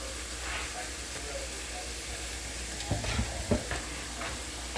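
Food sizzling in a pan on the stove, a steady hiss, with a few sharp knocks of a utensil against the pan about three seconds in as it is stirred.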